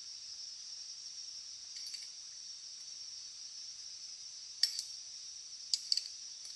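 A few sharp, light clicks, two about four and a half seconds in and a quick cluster of three about a second later, over a steady high-pitched hiss.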